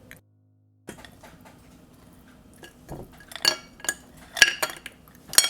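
Utensils clinking and scraping against a serving dish: scattered light clicks, then several louder ringing clinks in the second half.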